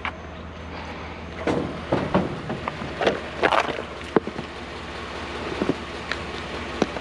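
Hands rummaging through boxes of discarded household items: rustling and a run of short clattering knocks in the middle, over a low steady hum.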